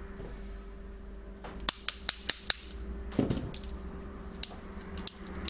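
A quick run of sharp plastic clicks and taps, about five in a second near the middle and a few more later, from a Tomy battery-powered toy train engine being handled while it fails to run.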